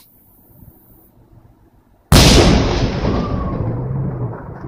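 Aerial firework shell bursting: about two seconds in, one loud boom, followed by a long rumbling echo that fades slowly.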